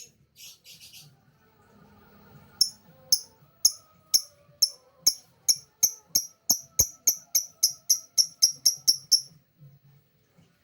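Lovebird calling: a run of about twenty short, sharp, high chirps that comes faster and faster for about six seconds, then stops.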